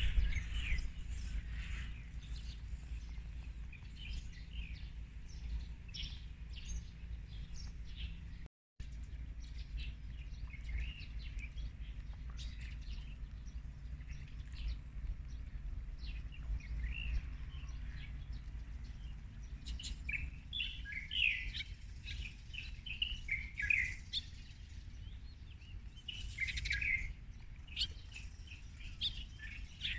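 Songbirds chirping and calling, many short scattered notes that grow busier in the second half, over a steady low rumble. The sound cuts out completely for a moment about nine seconds in.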